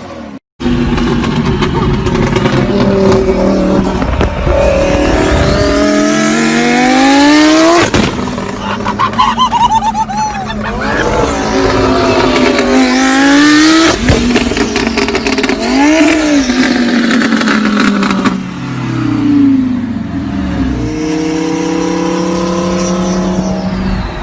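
Car engine with a loud aftermarket exhaust revving hard several times, its pitch climbing and dropping again and again, then falling back to a steadier lower note near the end.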